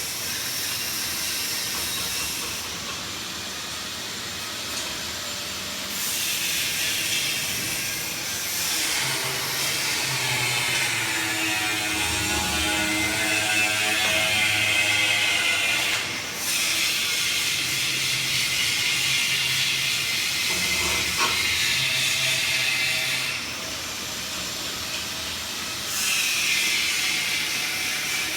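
PVC flexible duct machine running, giving off a loud hiss in long stretches of several seconds with short quieter breaks between, over a steady motor hum.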